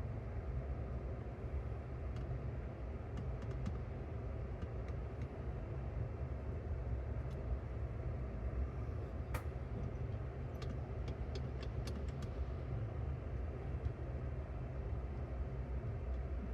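Steady low background rumble of room noise, with a scattering of faint light clicks, most of them between about nine and thirteen seconds in.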